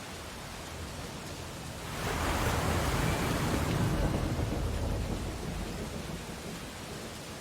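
Ocean waves on a beach: a wave breaks about two seconds in, its wash swelling quickly and fading back over a few seconds, over a steady surf hiss.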